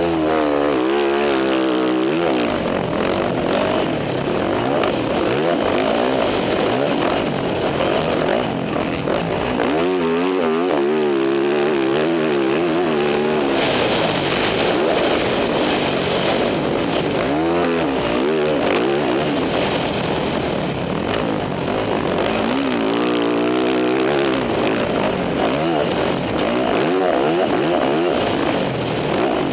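Dirt bike engine revving as the bike is ridden, its pitch climbing and dropping several times, over a steady rushing noise.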